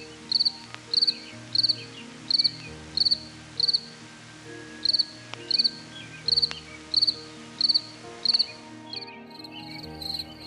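Cricket chirping: short pulsed chirps repeated about every two-thirds of a second, with one longer pause about four seconds in. Near the end a faster, denser trill joins in.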